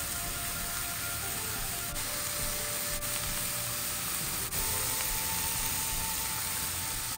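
Diced mushrooms and onions sizzling in oil in a frying pan, a steady hiss, with soft background music.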